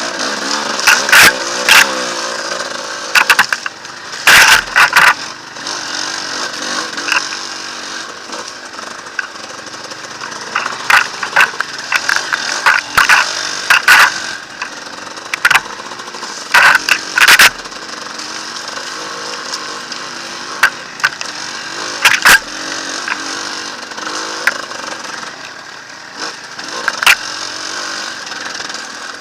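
Enduro motorcycle engine running off-road, its pitch wavering with the throttle. Frequent sharp knocks and clatter break in at irregular intervals.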